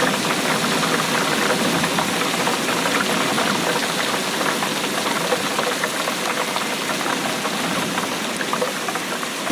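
Steady rainfall: an even hiss of rain with many small drop impacts scattered through it.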